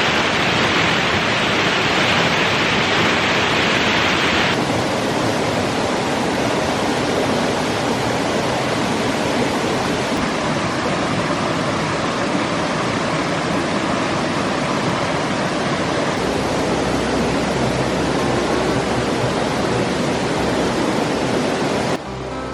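A rainforest creek's water rushing and cascading over rocks and small falls, a loud, steady rush. About four and a half seconds in, the sound shifts to a duller rush, as at a different stretch of the creek.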